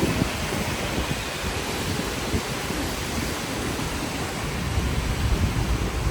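Hong Kong double-decker tram running in the rain: a steady low rumble under an even hiss.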